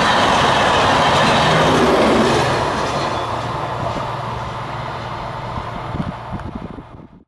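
An express train running through a station at speed without stopping: the loud rush and rumble of its passing coaches, fading from about two and a half seconds in as the train draws away, with a few rattles before the sound cuts off abruptly near the end.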